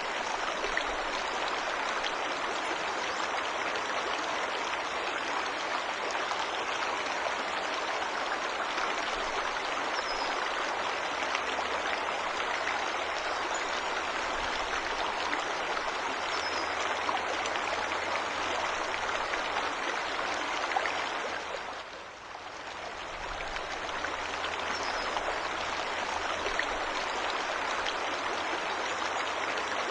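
Steady rushing of a forest waterfall, with a few faint high bird chirps over it. About three-quarters of the way through, the water sound dips briefly and swells back.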